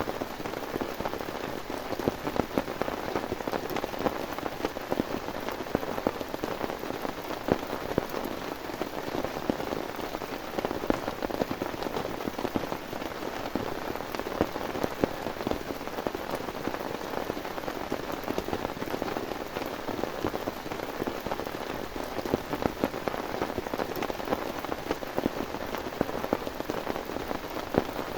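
Heavy rain falling steadily, a dense, even hiss thick with individual drop hits on a surface.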